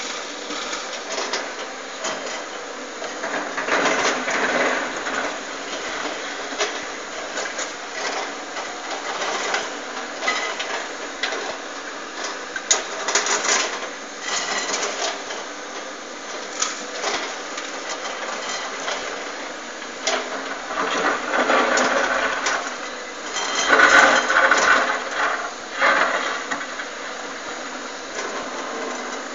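Hydraulic excavator working: a steady engine and hydraulic run that swells louder under load a few seconds in and again near the end, with a few sharp knocks.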